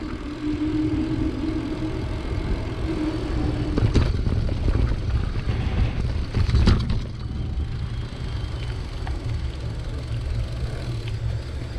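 Wind rushing over the microphone with road noise while riding a bicycle, a steady hum in the first few seconds and two sharp knocks, about four and seven seconds in.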